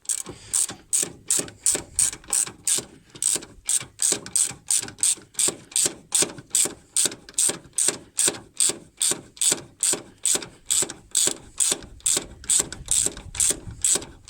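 Hand ratchet wrench clicking steadily, about three clicks a second, as it unscrews the nut holding the suspension strut.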